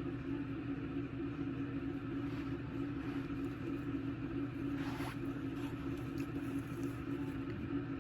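A steady low mechanical hum, with one brief rustle about five seconds in.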